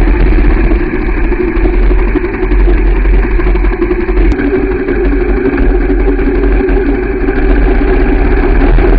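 A vehicle engine running steadily at low speed, with heavy low rumble on the microphone.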